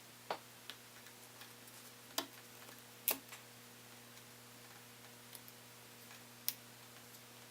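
About five scattered small sharp clicks and taps, the loudest a couple of seconds in, from small parts and a screwdriver being handled while a board is worked into an opened MacBook Pro. A faint steady hum runs underneath.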